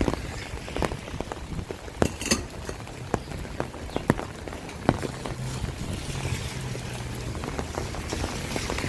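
Rain falling, with a steady patter and many separate heavy drops striking hard surfaces close by. A faint low hum runs underneath through the middle of the stretch.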